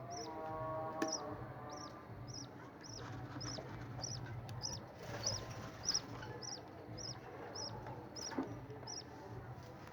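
Budgerigar chick's begging calls as its mother feeds it: a short, high cheep repeated steadily about twice a second, with a few sharp taps.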